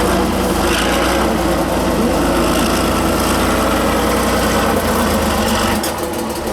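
Truck engine running steadily under load, with a deep rumble and a dense rattle; the deep rumble drops away near the end.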